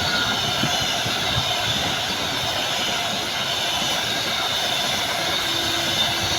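A train passing, with a steady rolling noise of wheels on rails and a faint high whine over it.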